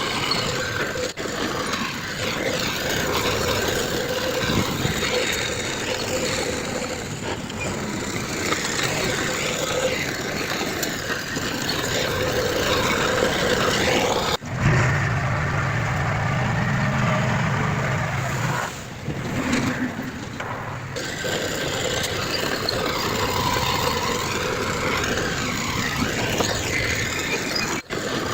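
Diesel engines of heavy earthmoving machinery running, with a stronger low engine hum for a few seconds around the middle. The sound breaks off sharply about a second in, halfway through and near the end, where the footage is cut.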